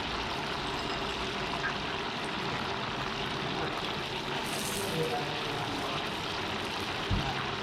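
Continuous hiss of food cooking in hot oil, with a low steady hum underneath.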